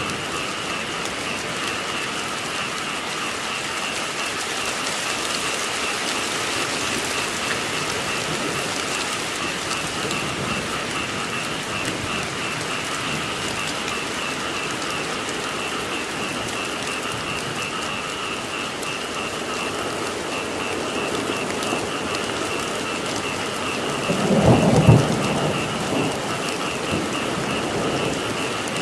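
Steady rainfall with a chorus of frogs calling throughout, and a loud low thunder rumble near the end.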